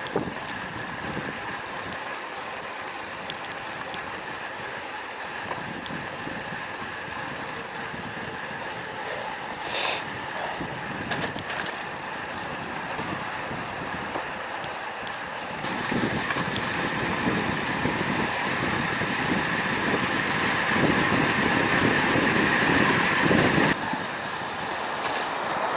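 Wind rushing over an action camera's microphone, with tyre and road noise from a road bike being ridden in strong wind. The wind noise gets louder for several seconds past the middle, then drops back.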